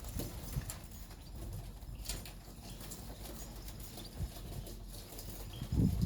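Caged canaries moving about, with scattered light taps and knocks of wings and feet against the cage, and one louder thump near the end.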